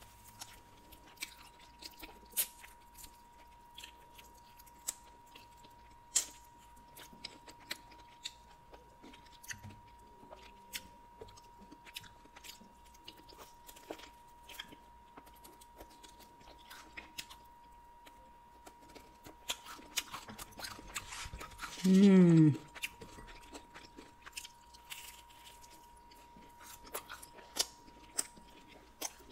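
Close-miked chewing of chicken wings and pizza: many small wet mouth clicks and crunches, with finger licking. About 22 seconds in, a short loud hummed 'mm' falling in pitch.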